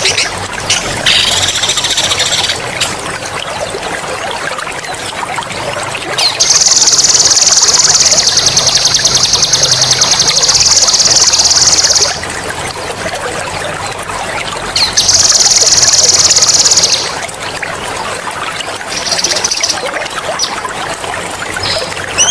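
Water trickling throughout, under a songbird's loud, sharp, high rolling trills. A long trill of about six seconds starts about six seconds in, and another of about two seconds comes later. Shorter ones fall near the start and near the end.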